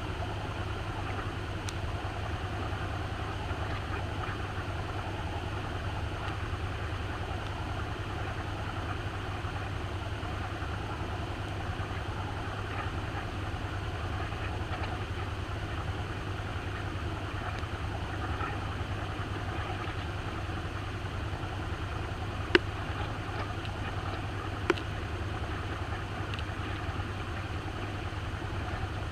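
Maytag washing machine running with a steady low hum, heard from inside the tub, with two sharp clicks near the end.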